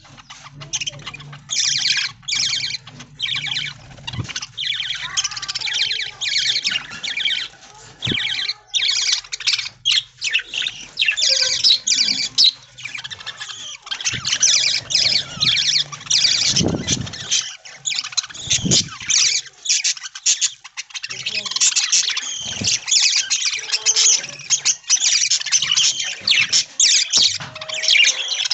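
A flock of budgerigars chattering and warbling, with many fast, overlapping chirps and squawks.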